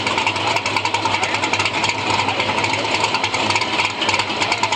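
Chevy II's engine running steadily at idle, with a choppy, rattling exhaust.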